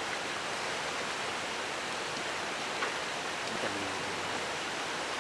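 Valley stream rushing steadily over rocks, with a few faint clicks.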